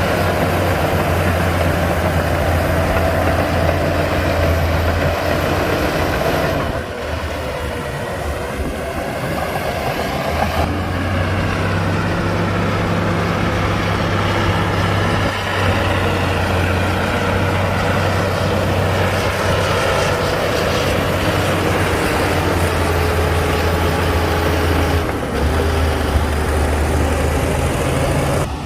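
Komatsu D60-P bulldozer's diesel engine running steadily at work, its note dipping briefly about seven seconds in and again near the end.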